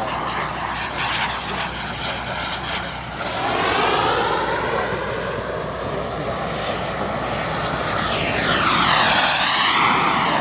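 Turbine-powered RC jet (BVM Desperado with a KingTech 235 turbine) flying, its turbine whine swelling on two passes, about four seconds in and again near the end, the pitch dropping as it goes by the second time.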